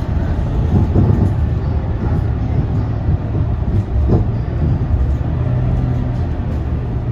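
Scania K230UB city bus's diesel engine running under way, a loud low rumble with a couple of short knocks from the body, settling into a steadier low hum about five seconds in.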